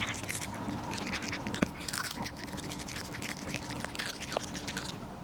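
A cat gnawing and crunching on a corn cob: irregular crisp bites and scraping, with one sharper click about a second and a half in.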